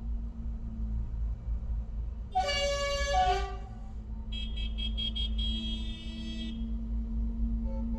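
A horn sounds for about a second, stepping through a few notes. A higher, rapidly pulsing horn follows for about two seconds. Under both is a steady low engine rumble.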